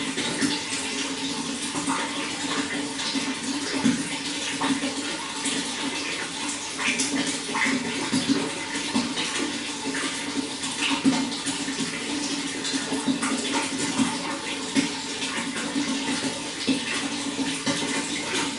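Running water flowing steadily, a continuous rush full of small splashes and gurgles.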